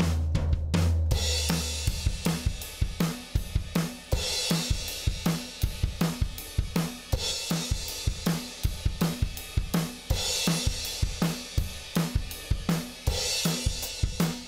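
Recorded drum kit playing a steady groove of kick, snare and hi-hat, with a cymbal crash about every three seconds, run through a Lindell Audio 17X FET (1176-style) compressor. A low bass note sounding under the drums drops out about a second in.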